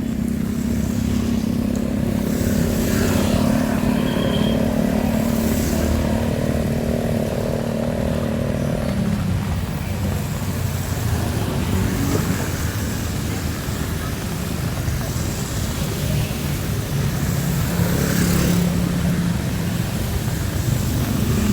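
Heavy rain falling on a street with motor vehicles going by on the wet road. An engine hums steadily and fades out about nine seconds in. Tyres hiss on the wet surface a few times, and another engine hum comes in near the end.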